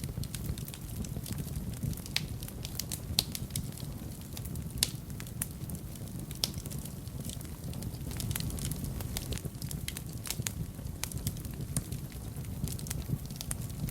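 Wood fire burning in a fireplace: a low steady rumble of flame with frequent sharp irregular crackles and pops, a few louder snaps among them.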